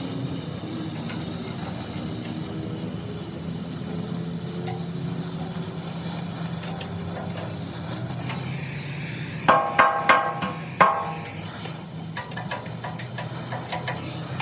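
A steady hiss with a low hum, broken about two-thirds of the way through by a quick run of about four ringing hammer blows on steel.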